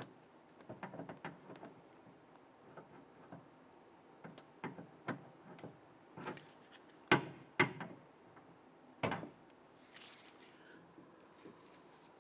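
Scattered plastic clicks and knocks as a hand tool pries and wiggles a wiring-harness connector tab inside a pickup's door, with the sharpest clacks about seven and nine seconds in.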